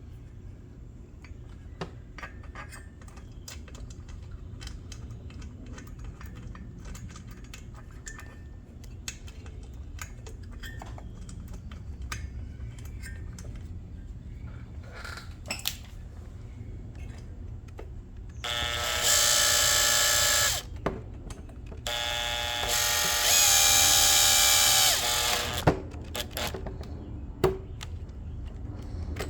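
Scattered small clicks and knocks of parts being handled. Then a small electric power tool's motor runs twice with a steady whine, about two seconds the first time and about three and a half the second, its pitch and level stepping up and down as the trigger is worked.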